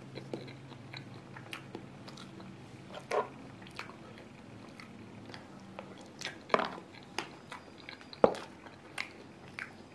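Close-up mouth sounds of eating a soft layered dessert: wet chewing and lip smacks with scattered short clicks, the sharpest about eight seconds in.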